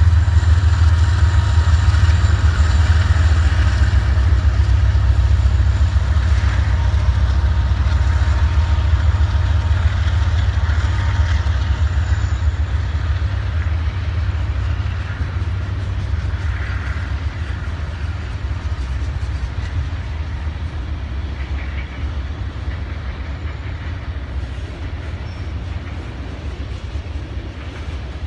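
A freight train going by, led by GE ES40DC and EMD SD70MAC diesel-electric locomotives. Its deep, steady rumble slowly fades as the locomotives pull away.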